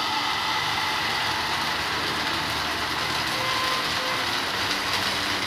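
Uttapam batter sizzling steadily in hot olive oil in a nonstick frying pan as it is spread out with a ladle.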